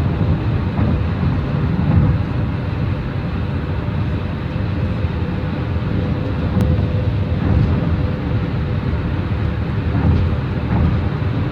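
Tyre and road noise heard from inside a car cruising on an interstate highway: a steady, deep rumble with a faint even hum above it.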